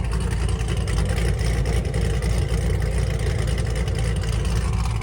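Car engines running at a car meet: a steady low rumble.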